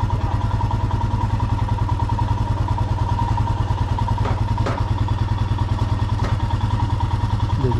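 Motorcycle engine running steadily at low speed, a rapid, even low thump, with a few faint clicks around the middle.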